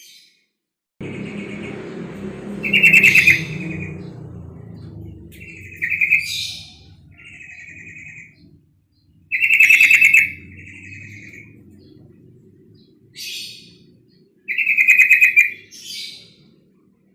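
Female yellow-vented bulbul calling: rapid, rattling chattering phrases, the three loudest coming roughly every six seconds with softer notes between them. A low background rumble sets in about a second in.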